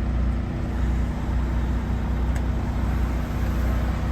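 Semi truck's diesel engine idling, heard from inside the cab as a steady low rumble.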